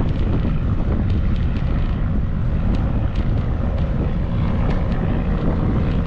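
Wind rushing over a GoPro's microphone while cycling: a steady low rumble, with faint scattered clicks throughout.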